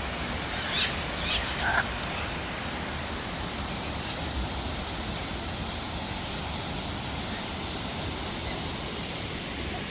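Steady rush of falling water, with a few brief bird chirps about a second in.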